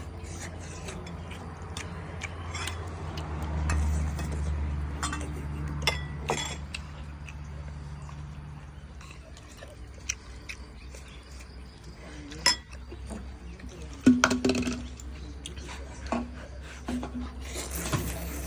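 Scattered clinks and knocks of bowls, spoons and other tableware, over a steady low hum.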